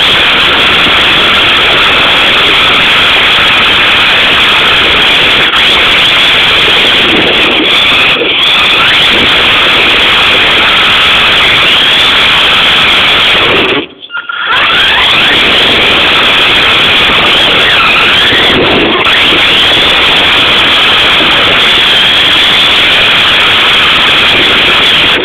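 An RC drift car's motor runs loud and whining, its pitch sliding up and down as the car speeds up and slows. The sound cuts out briefly about halfway through.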